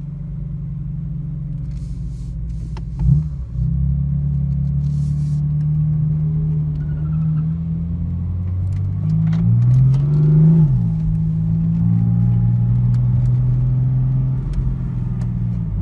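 Cabin sound of a BMW M4's twin-turbo straight-six under way, a steady low drone. Its pitch shifts with a sharp knock about three seconds in, then rises and drops again around ten seconds in, as it pulls through the gears.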